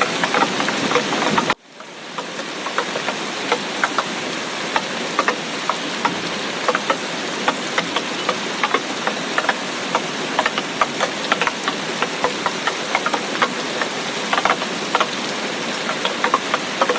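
Heavy tropical rain: a steady hiss of rainfall with many distinct, close drop hits scattered through it. About one and a half seconds in the sound cuts out abruptly and swells back up over a second, like a splice in the recording.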